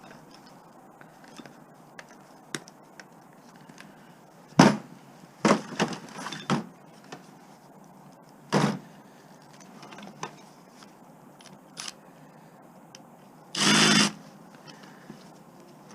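Scattered clicks and knocks of scrap wire and tools being handled, with a cluster of loud knocks about five seconds in, another near nine seconds, and a louder half-second rasping burst near the end.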